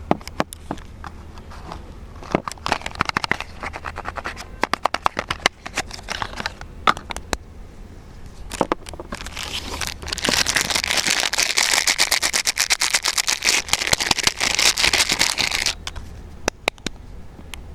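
Soap packaging being unwrapped by hand: scattered taps and clicks of handling, short bursts of crinkling wrapper, then about six seconds of dense, continuous crinkling starting about ten seconds in.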